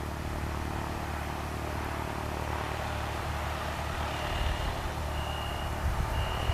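Vehicle reversing alarm beeping about once a second, starting about four seconds in, over a steady low rumble.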